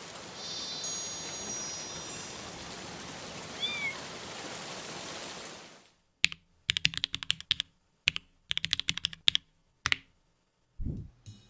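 Bursts of typing on a mechanical keyboard: clusters of quick key clacks in the second half. Before that comes a steady hiss like rain, with a few faint high tones and a brief high rising-and-falling squeak in the middle. A low thump comes near the end.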